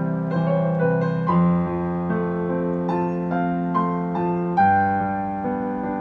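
Solo piano playing a slow melody over held left-hand chords, with the bass changing about a second in and again near five seconds. The melody is ornamented with turns, quick groups of notes circling above and below a main note.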